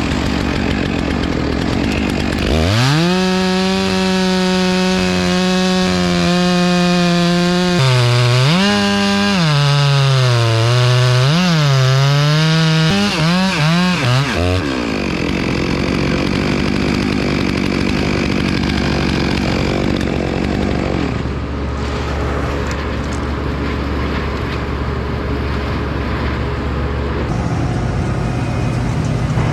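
Two-stroke chainsaw running at full throttle for about twelve seconds, held steady at first, then its pitch dipping and recovering several times as the chain bogs in the cut, before it lets off. A steady low engine drone runs underneath throughout.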